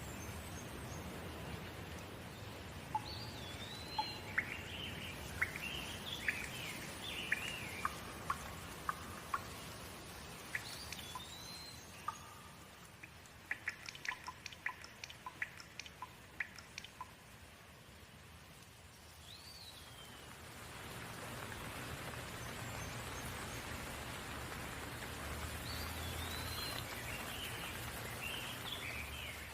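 Steady rain falling, with birds chirping in short rising and falling calls, several times over. About halfway through the rain eases for a few seconds and a quick run of sharp drips is heard, then the rain builds back.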